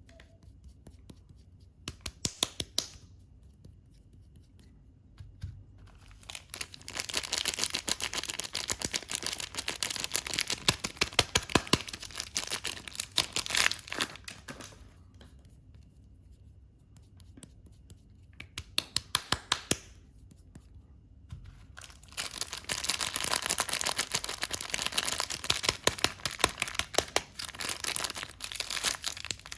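Soap packaging being crinkled and torn open, in long stretches of dense crackling with bursts of sharp snaps, separated by quiet pauses.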